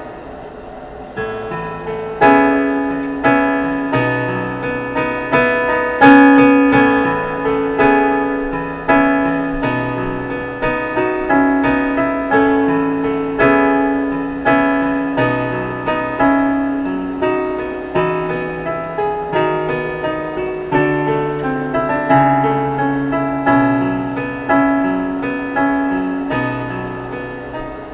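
Slow piano music: single notes and chords struck about one or two a second over held bass notes, each note fading before the next.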